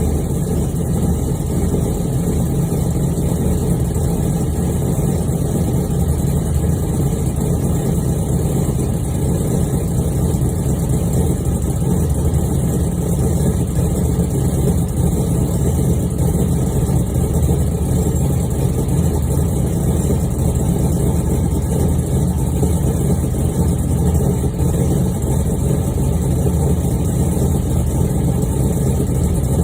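1999 Chevy Camaro Z28's 5.7-litre LS1 V8 idling steadily after a cold start.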